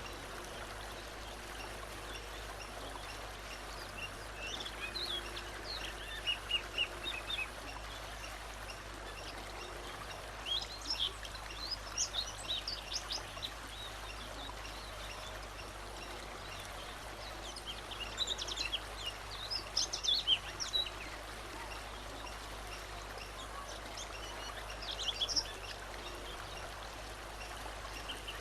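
A songbird singing in four short bouts of quick, high chirping notes, with pauses of a few seconds between them, over a steady background hiss.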